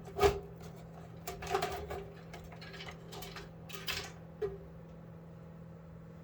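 Clicks and knocks of computer hardware being handled during a PC teardown. The loudest comes just after the start, with a few lighter taps over the next four seconds, and a faint steady hum underneath.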